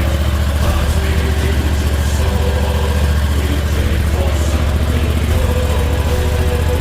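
Loncin 40 hp gasoline engine of a high-pressure washer running steadily, with a low, even firing rhythm.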